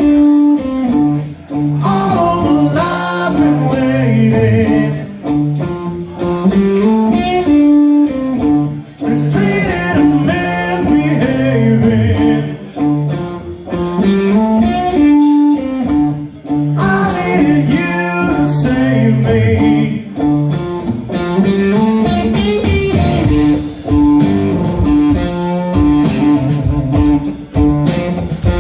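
Live blues song: guitars playing with a voice singing over them and a steady beat.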